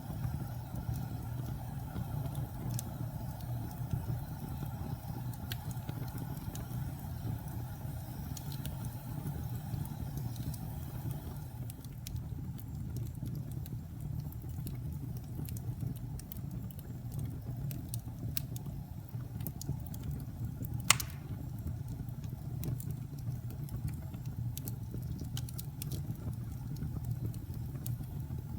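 Fire crackling over a steady low rumble, with scattered small pops and one loud sharp pop about three-quarters of the way through.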